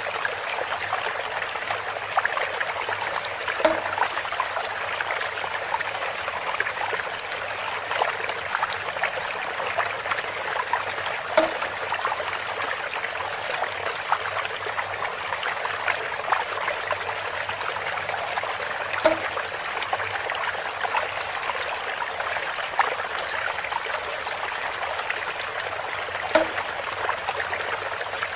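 Water trickling steadily through bamboo, with a short knock about every seven and a half seconds, four in all.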